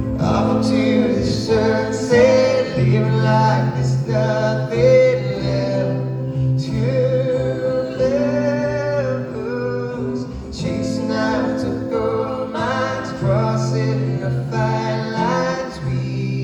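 Live acoustic performance: a male voice singing over acoustic guitar.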